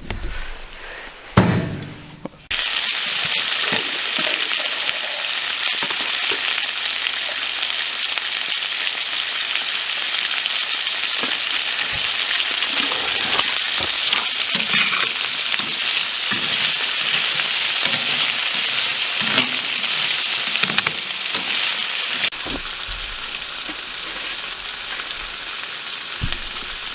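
Food frying in a hot pan: a steady sizzling hiss with dense crackles. It starts suddenly a few seconds in and drops a little quieter near the end.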